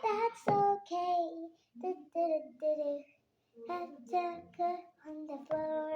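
A young child singing in a high voice without accompaniment, in short phrases with a brief pause midway and a held note near the end.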